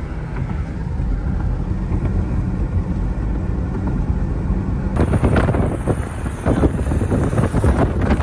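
A steady low rumble, then about five seconds in, gusty wind starts buffeting the microphone in irregular bursts.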